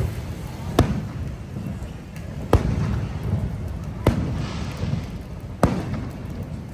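Fireworks going off: four sharp bangs about a second and a half apart, over a steady low rumble.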